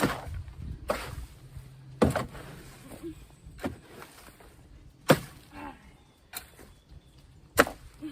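Rake strokes scraping leftover mulch and wood chips out of a trailer bed: about seven sharp scrapes, roughly one every second or so.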